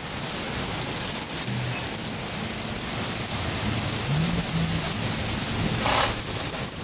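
Heavy rain pouring steadily and drumming on surfaces, a downpour that keeps going without a break, with a brief louder swell about six seconds in.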